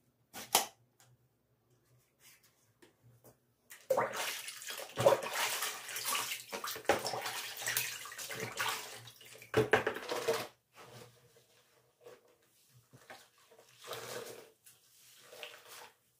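Water splashing and running during bathroom cleaning, in irregular surges from about four seconds in and then in shorter bursts. There is a sharp click near the start.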